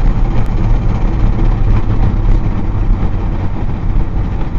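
Mk7 Volkswagen Golf GTI's turbocharged 2.0-litre four-cylinder engine running steadily at idle, a low, even drone.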